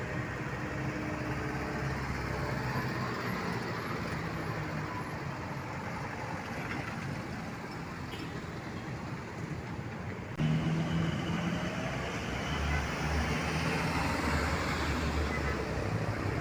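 Road traffic with heavy diesel trucks and buses running past. About ten seconds in the sound changes abruptly and a deeper, louder engine hum takes over.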